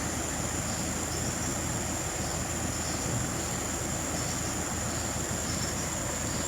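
Vehicle engine running steadily at low speed on a rough track, with a thin, steady high-pitched tone over it.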